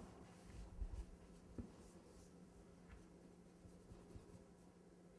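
Near silence with faint handling sounds of hands smoothing fondant over a cake: a few soft bumps in the first two seconds and a faint click near three seconds, over a faint steady hum.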